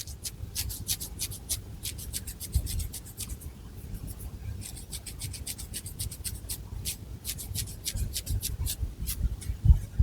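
Long fingernails scratching through thick hair on the scalp: a run of quick, crisp scratching strokes, about four a second, with a short pause a little before the middle.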